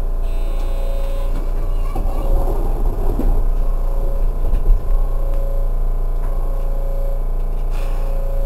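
Running noise inside an Osaka New Tram 100A-series rubber-tyred guideway train: a steady low rumble and hum from the running gear. A muffled voice comes in briefly about two to three seconds in.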